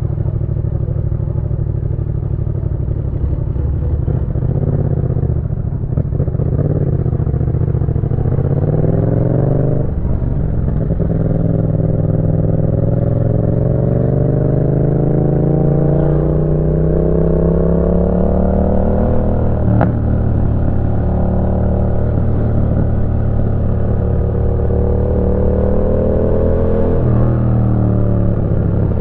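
Yamaha MT-07's 689 cc parallel-twin engine through an aftermarket Roadsitalia titanium exhaust, riding under load. The engine's pitch climbs steadily, then drops back sharply about ten, twenty and twenty-seven seconds in, like gear changes.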